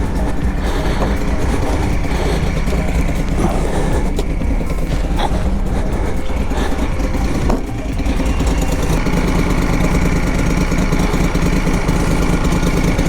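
Moto Guzzi Griso 1200's transverse V-twin idling steadily, just brought back to life after a flat battery from storage.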